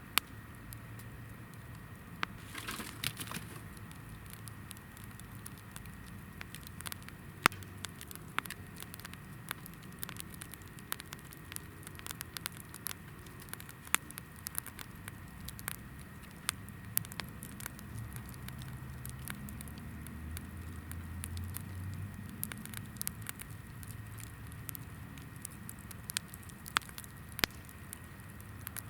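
Campfire of hinoki (Japanese cypress) firewood burning, crackling with frequent sharp pops of varying loudness.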